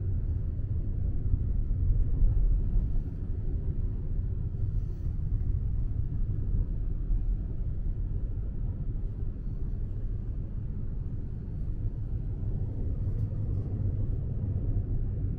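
Steady low rumble of the Sunrise Express sleeper train (a 285 series electric train) running along the track, heard from inside the carriage.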